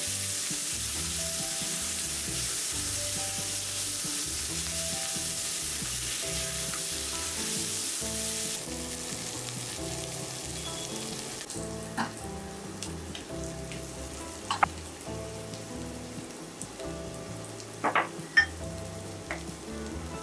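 Sliced onions sizzling in hot oil in a stainless steel pot while being stirred with a spatula. The sizzle eases off about halfway through, and then a few sharp clinks of utensils on the pot follow.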